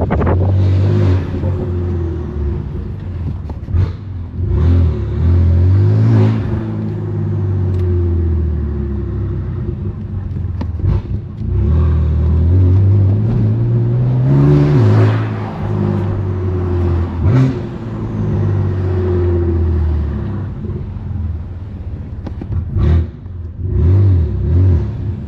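BMW M3's S55 twin-turbo inline-six through a straight-piped single mid-pipe exhaust, pulling through the gears in city traffic: two main pulls where the engine note climbs and gets louder, then falls back at the shifts. A few short, sharp cracks come from the exhaust near the end; the sound is aggressive.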